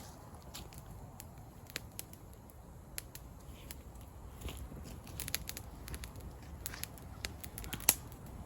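Wood campfire crackling, with scattered irregular pops and one loudest pop near the end, over a low steady rumble.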